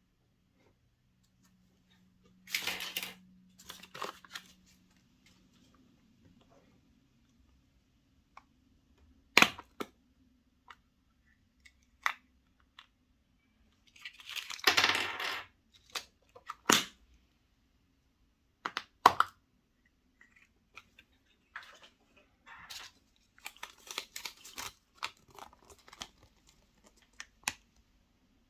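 Hands unwrapping and opening chocolate surprise eggs and their toy capsules: a few short rustling, tearing bursts and scattered sharp clicks and taps of small hard objects.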